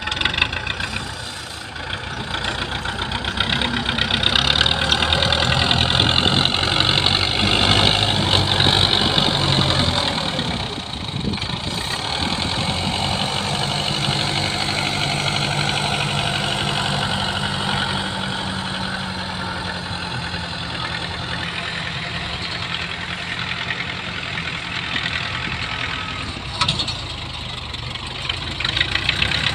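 Belarus tractor's diesel engine running under load, louder and busier for the first ten seconds or so, then settling to a steadier, lower running note. A single sharp knock near the end.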